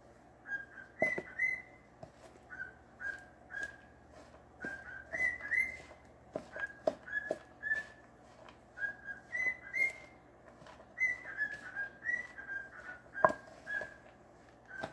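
A pet parrot whistling a string of short, repeated notes, several sliding upward at the end. A few sharp knocks sound in between, the loudest near the end.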